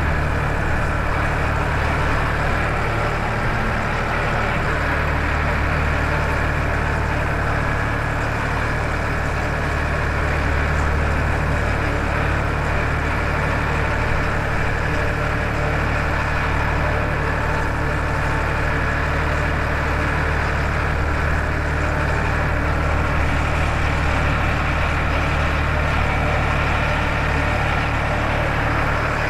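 Farmtrac 60 tractor's three-cylinder diesel engine running steadily under way, a constant low engine drone.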